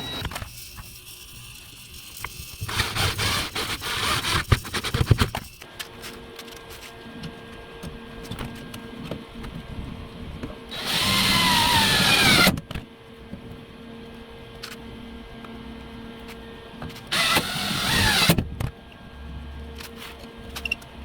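A power tool runs in two bursts of about two seconds each, its pitch sagging as it runs, over a steady hum. Knocks and clatter come in the first few seconds.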